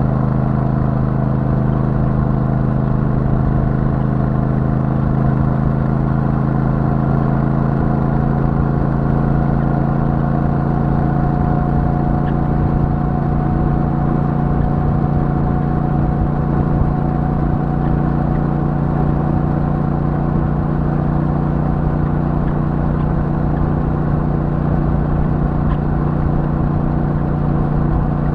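Royal Enfield Super Meteor 650's 648 cc parallel-twin running through its stock exhaust at a steady speed, its note holding an almost even pitch.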